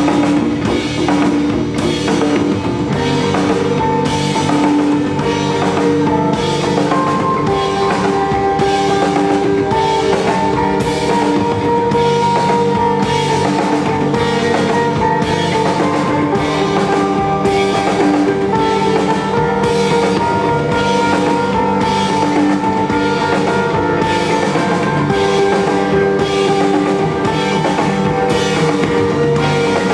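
Rock band playing live: a drum kit keeps a steady, even beat under held guitar notes.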